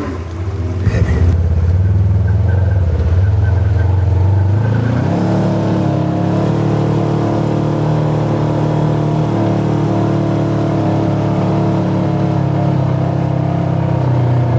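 Side-by-side UTV engine running, its pitch rising about five seconds in as it speeds up and then holding steady at the higher speed.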